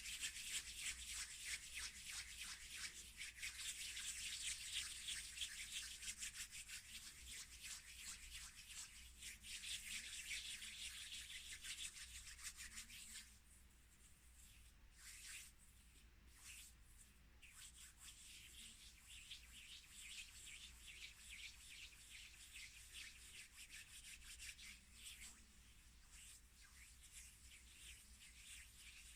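Close-miked ASMR rubbing, hands brushing and rubbing with a dry, scratchy rustle. It is louder for the first half, then softer and more broken up.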